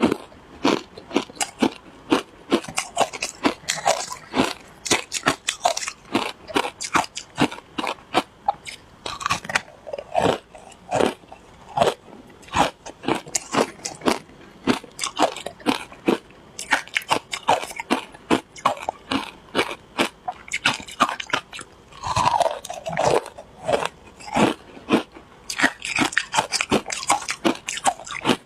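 Close-miked crunching and chewing of shaved ice flavoured with matcha and milk powder: rapid, irregular crunches, several a second, with no pauses.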